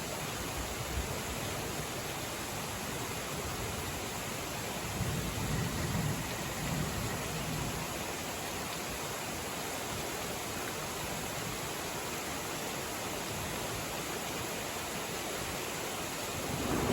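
Steady rain hiss during a thunderstorm, with a low rumble of thunder swelling about five seconds in and fading by seven seconds.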